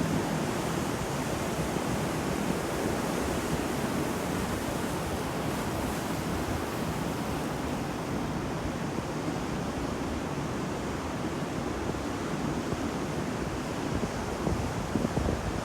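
Sea surf: waves washing onto a shore in a continuous rush, swelling a little louder near the end.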